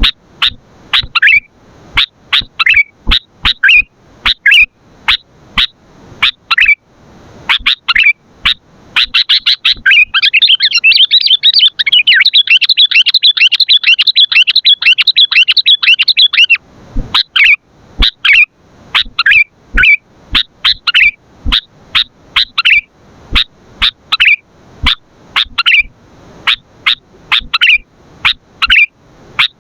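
Sooty-headed bulbul (kutilang) calling: loud short chirps repeated a couple of times a second, breaking into a fast continuous chatter for about seven seconds midway, then back to spaced chirps.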